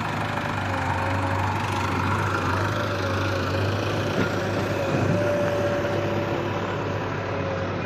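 JCB 3DX backhoe loader's diesel engine running steadily, with a thin whine that wavers a little in pitch and a couple of faint knocks midway.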